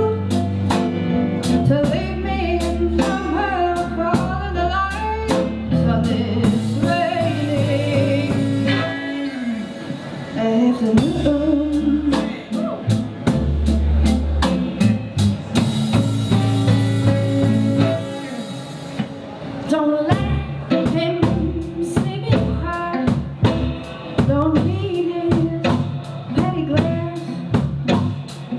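Live rock band playing: a woman singing over electric guitars, bass and drum kit. The drums drop back briefly about a third of the way through and again near the middle, then come back in.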